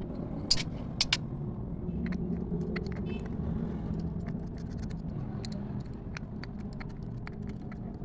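Scattered sharp metallic clicks and clinks, three loud ones in the first second, over a steady low rumble.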